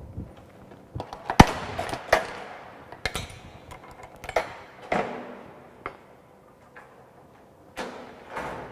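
Metal clanks and knocks from handling a galvanized steel pipe and its tools at a tripod pipe vise: a string of separate sharp knocks with short ringing, the loudest about a second and a half in.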